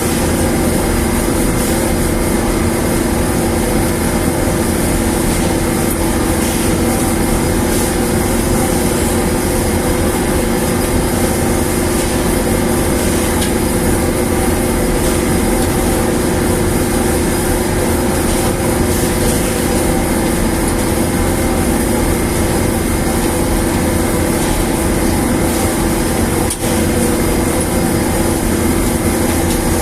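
Newly installed dryer machine running with a loud, steady mechanical hum and a constant low drone, unchanged apart from one very brief dip late on.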